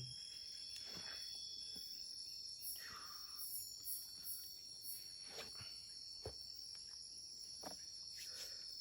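Forest insects, crickets among them, keeping up a steady high-pitched chorus, with a few faint clicks and knocks scattered through it.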